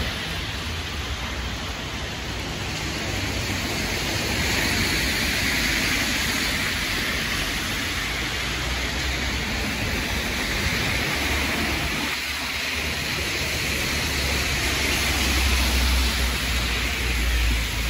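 Strong snowstorm wind blowing across a phone microphone: a steady rushing hiss with a low rumbling buffet that swells in places.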